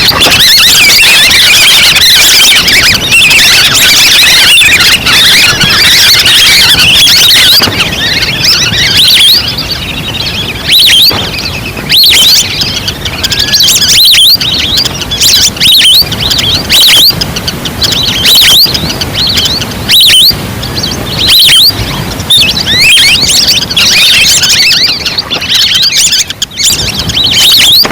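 Recorded flock of ducks calling, played as a hunting lure: a dense chorus of high, squeaky whistled calls, unbroken for the first several seconds, then coming in short loud bursts with brief gaps.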